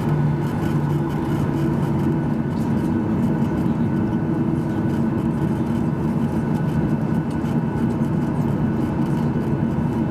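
Boeing 737-800's CFM56-7B jet engines running steadily, heard inside the passenger cabin as an even rushing noise with a constant low hum.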